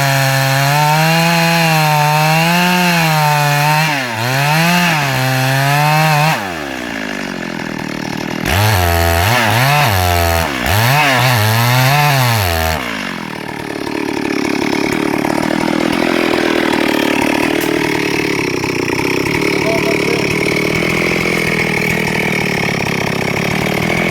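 Two-stroke chainsaw running at high revs with its pitch wavering, dropping off about six seconds in, then revved up and down several times. From about thirteen seconds it settles into a steadier, noisier sound without a clear pitch, in keeping with the chain cutting through wood.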